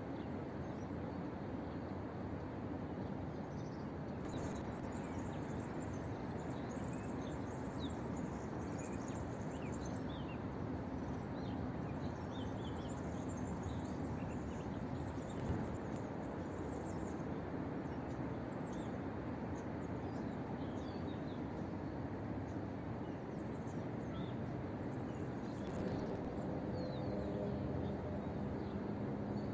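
Small birds chirping in quick short calls over a steady outdoor background hiss. Near the end a low hum with several steady tones comes in.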